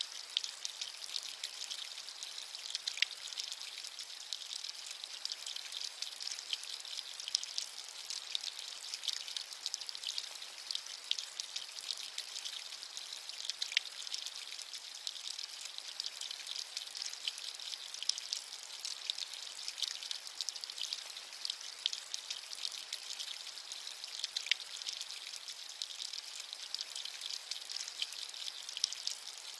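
Steady rain falling, a continuous high, thin hiss full of fine drop patter, with a few slightly sharper drop ticks scattered through it.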